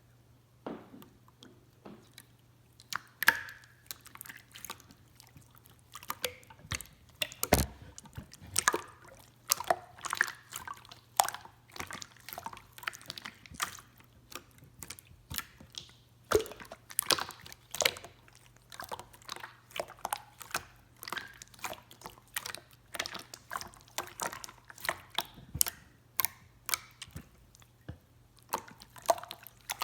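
Marbled slime being squished and pressed by hand: a dense, irregular run of wet, sticky clicks and pops.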